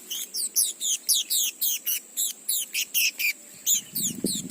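Sunbirds giving a rapid run of sharp, high chirps, each one dropping in pitch, about three to four a second. A low rustling noise starts near the end.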